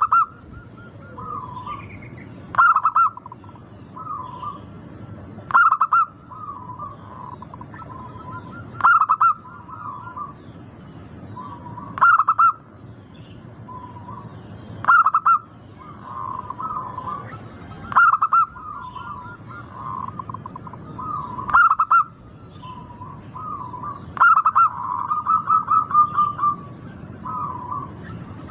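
Zebra dove (perkutut) cooing in repeated phrases, a loud burst of coos about every three seconds with softer coos between, and a quicker run of notes near the end.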